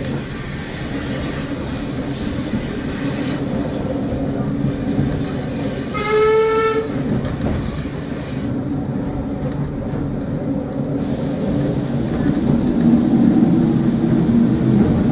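Steady rumble of a heritage railway passenger coach running along the line, heard from inside the coach. About six seconds in, the train sounds one short note on its horn, lasting under a second. The running noise grows louder near the end.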